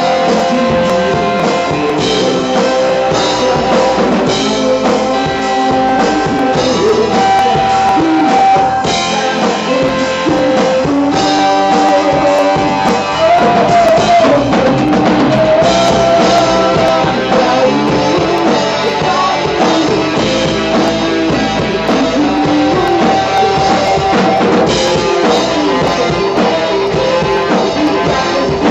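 Rock song played by a full band: drum kit and guitars, with a held, bending melody line over them.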